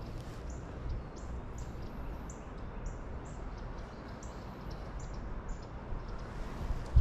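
A small bird calling a series of short, high chirps, about two a second, that stops about five and a half seconds in, over a steady background rush with low wind rumble.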